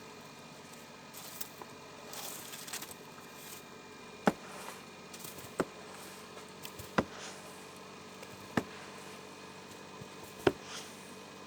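Wood stove burning, with sharp single pops about every one and a half seconds over a faint steady hum.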